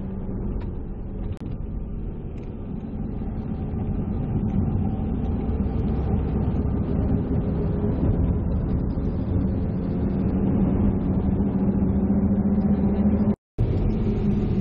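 A vehicle engine running steadily, a constant low rumble and hum. The sound cuts out for a moment near the end.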